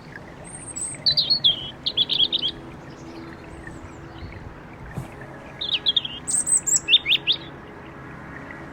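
A songbird singing two short bouts of quick, high chirps and trills, a few seconds apart, over a faint steady low background hum.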